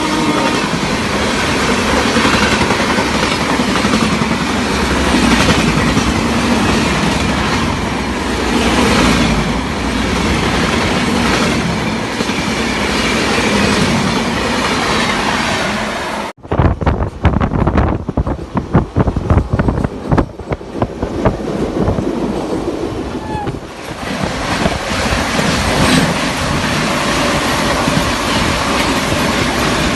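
Passenger train running, heard from on board: a steady rumble and rush of wheels and carriage. About 16 seconds in the sound cuts off abruptly and gives way to several seconds of fast, irregular clattering as the wheels run over rail joints, before settling back into steady running.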